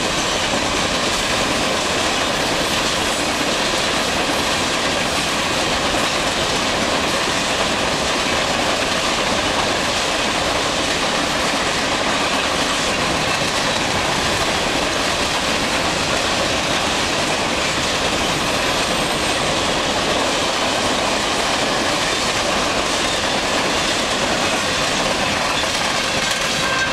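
Freight train's cars, covered hoppers among them, rolling steadily past, their steel wheels running on the rails in a constant, loud rumble and clatter.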